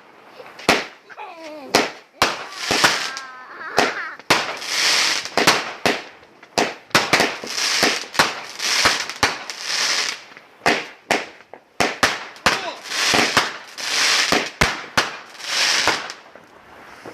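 Fireworks going off: a dense series of sharp bangs, some in quick clusters, with bursts of hissing crackle between them.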